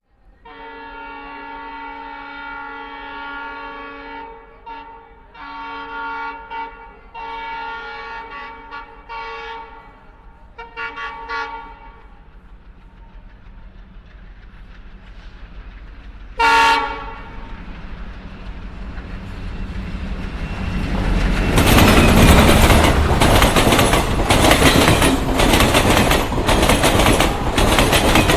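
Diesel freight locomotive's horn sounding in several blasts, then one short, louder blast about sixteen seconds in. A rumble builds as the train comes closer, and from about twenty-one seconds the tank-wagon train passes close by, loud, with its wheels clattering over the rail joints.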